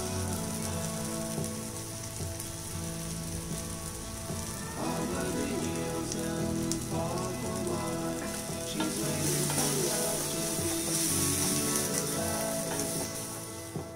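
Chopped onions and tomatoes sizzling in oil in a stainless steel kadai, stirred with a wooden spatula.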